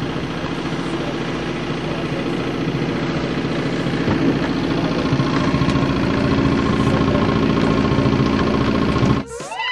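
Boat engine idling steadily, cutting off sharply near the end.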